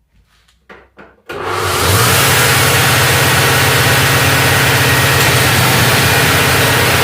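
Bosch 90 A alternator from a VW Gol spun up for a charging test: a few clicks, then a little over a second in it starts running loud and steady with a low hum and a harsh hiss. The noise comes from a worn bearing that is due for replacement.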